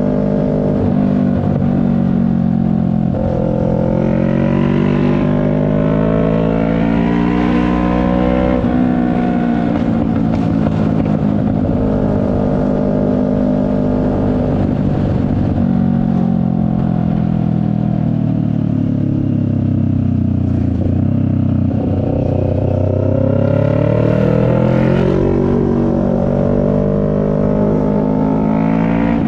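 CFMoto 400NK's parallel-twin engine under way, its pitch climbing under throttle and dropping sharply at gear changes, about nine seconds in and again near twenty-five seconds. In between, the revs fall away for several seconds as the bike slows, then rise again as it accelerates.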